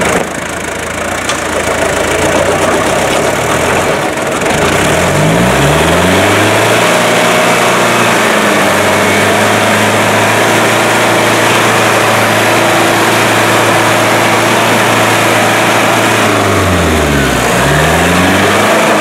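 Off-road 4x4's engine running low for the first few seconds, then revving up about five seconds in and held at steady high revs. Near the end the revs drop away, then climb again.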